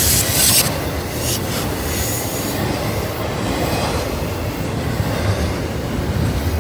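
Double-stack intermodal container freight train rolling past: a steady rumble of wheels on rail, with loud high-pitched wheel noise that drops away about half a second in.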